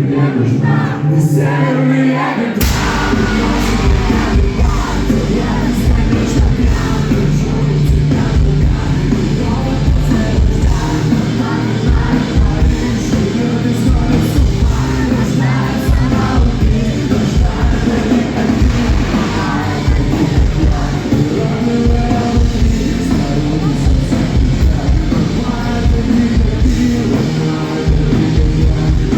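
A live rock band plays with singing over it. The heavy bass and drums come in about two and a half seconds in and carry a steady driving beat from then on.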